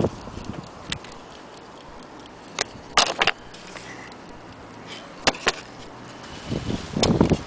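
Scattered sharp clicks and knocks at uneven spacing, with a cluster of heavier knocks and low thuds near the end, typical of a wooden mantle clock being handled and moved about.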